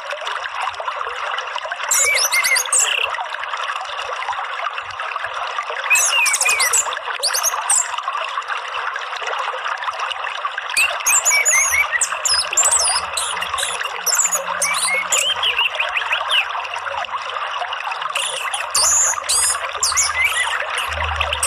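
Steady running water, with songbird chirps and whistled phrases breaking in every few seconds, played as a calming therapy track for a caged orange-headed thrush.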